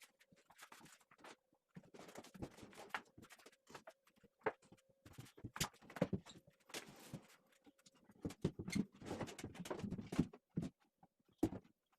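Irregular light knocks, taps and scraping from hands-on cabinet installation work, with a faint steady hum through roughly the first eight seconds.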